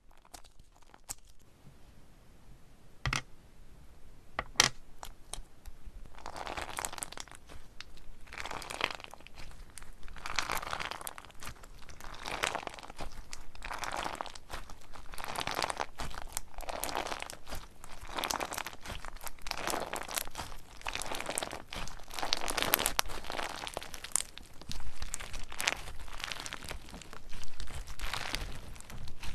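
Slime being squeezed and pressed by hand, giving crackling, crunching bursts. After a couple of sharp clicks, the presses come about every one to two seconds from a few seconds in.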